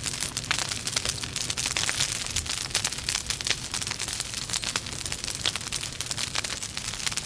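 Wood logs burning in a fireplace, crackling with many quick, sharp pops and snaps over a steady hiss and low rumble of the flames.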